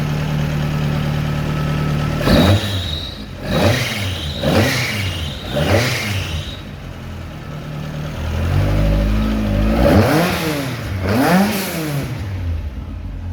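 Rally car engine idling steadily, then accelerating hard with four quick revs climbing and dropping back as it shifts up through the gears. After a quieter spell it revs up and down twice more.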